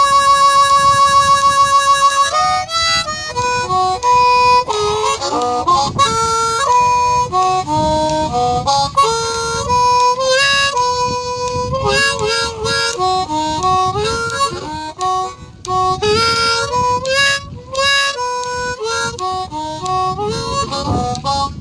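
Blues harmonica solo. A long held note with a pulsing warble for about the first two seconds, then quick runs of bending, shifting notes.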